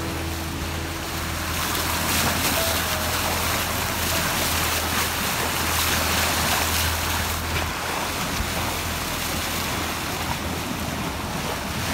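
Sea water rushing and splashing along a sailboat's hull under way, with wind on the microphone and a steady low hum beneath.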